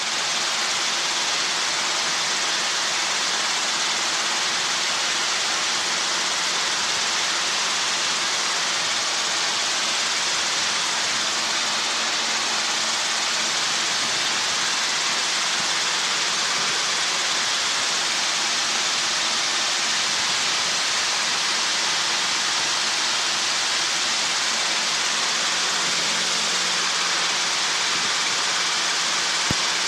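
Helicopter cockpit noise heard through the intercom audio feed: a steady, even hiss with a faint low hum underneath.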